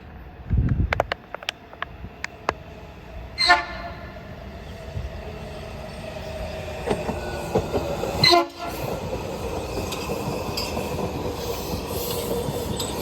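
Washington Metro train passing through the station without stopping, sounding two short horn blasts about 3.5 and 8 seconds in. Its running noise builds from midway with a steady whine over the rumble of the wheels. A few sharp clicks and low thumps come early on.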